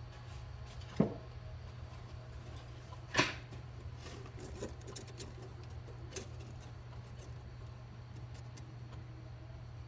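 Steel strip being cut and handled with hand tools: three sharp metallic snaps about a second in, around three seconds in (the loudest, with a brief ring) and around six seconds in, with light ticks and clicks between, over a steady low hum.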